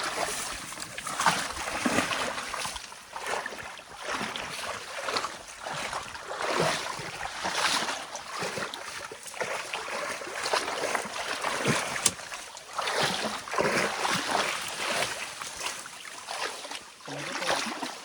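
Stream water splashing and sloshing in irregular surges, about one a second.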